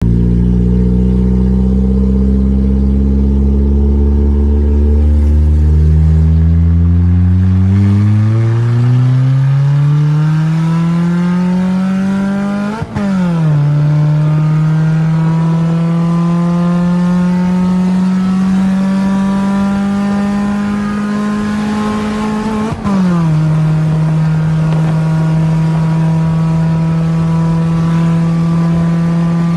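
Freshly swapped-in Suzuki G16 1.6-litre four-cylinder engine in a Cultus, heard from inside the cabin while accelerating through the gears. The revs climb steadily for about thirteen seconds, dip briefly and fall at an upshift, then climb more slowly. They fall again at a second upshift a little over twenty seconds in and settle to a steady cruise.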